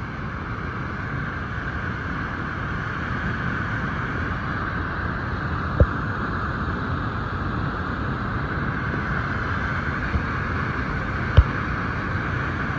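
Steady rush of Minneopa Falls, water pouring down without a break, with two short knocks, the louder one near the end.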